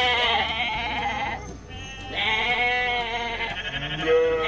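Sheep bleating: a long bleat that ends about a second and a half in, a second from about two seconds in, and a third starting near the end.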